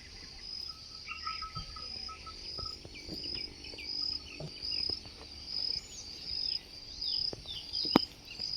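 Crickets chirping in a steady, even rhythm of high pulses, about two a second, with short falling bird chirps mixed in. A single sharp click sounds near the end.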